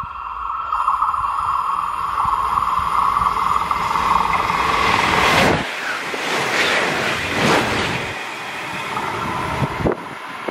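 Passenger train passing through the station at speed. A hum and hiss from the rails builds as it approaches and peaks after about five seconds. The train then rushes by in a few surges and is gone near the end.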